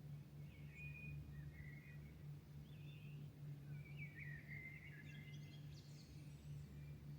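Faint songbirds singing at dawn in short, warbling, chirping phrases, with the longest phrase from about four seconds in. Under them runs a steady low hum.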